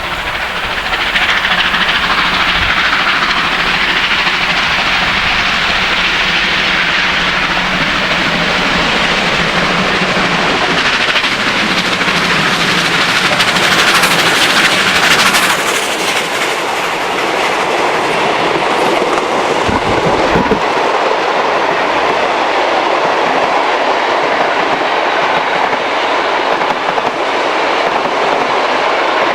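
Steam-hauled heritage train running on the line, carriage wheels clattering steadily over the rail joints. A brief hiss-like burst comes about halfway, and a low thump follows a few seconds later.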